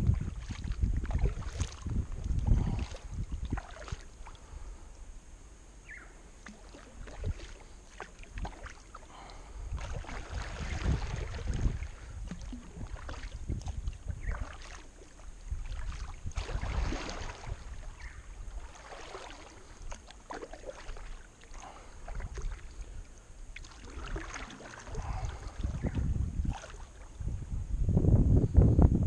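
Kayak paddle strokes dipping and splashing through the water in a slow, uneven rhythm, with gusts of wind rumbling on the microphone near the start and end.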